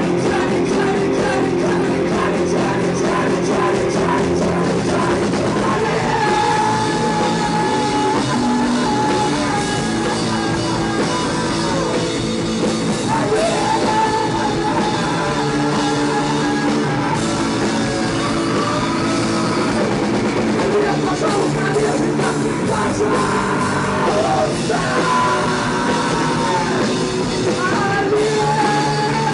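Live rock band playing an instrumental passage of a psychedelic rock song, with steady drums and bass under a sustained, wandering lead guitar melody that comes in about six seconds in.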